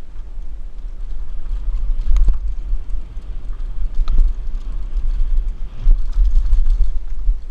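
Wind buffeting a helmet-mounted action camera's microphone while riding a Mongoose Pinn'r mountain bike downhill. The bike rattles over rough trail, with sharp clacks about two, four and six seconds in.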